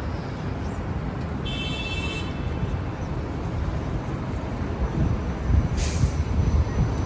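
Busy street traffic with a steady low rumble. A brief high squeal comes about a second and a half in, and a short hiss comes near the end.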